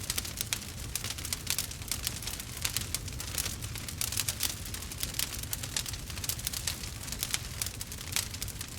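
Wood fire burning, with a dense run of small crackles and pops many times a second over a low, steady rumble of the flames.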